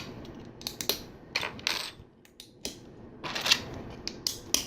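LEGO bricks clicking as they are handled and pressed together: irregular sharp plastic clicks, with a couple of short clatters of loose pieces about one and a half and three and a half seconds in.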